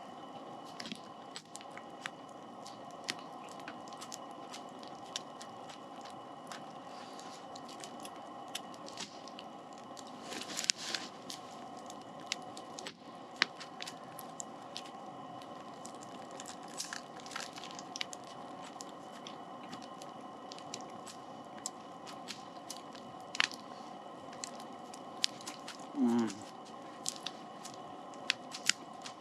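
Crunchy bites and chewing of a baguette sandwich, with many sharp pops and crackles from a campfire and a steady hum, from a lantern, underneath. A short pitched hum of a voice comes about 26 seconds in.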